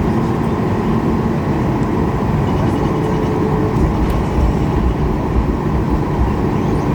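Steady rumble of a Boeing 737 MAX 8's CFM LEAP-1B engines and airframe heard inside the passenger cabin, with no sudden change in level.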